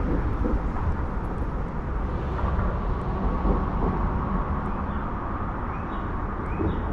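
Steady low rumble of outdoor background noise, with a few faint short rising chirps near the end.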